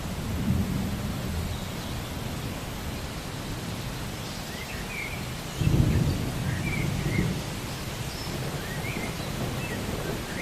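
Steady rain with rolling thunder: a low rumble about half a second in and a louder one breaking in just past the middle. Short high chirps come through the rain over the second half.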